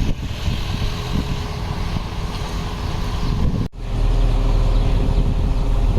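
Heavy construction machine's diesel engine running steadily. About two thirds of the way through the sound cuts out for an instant, then returns with a stronger low rumble.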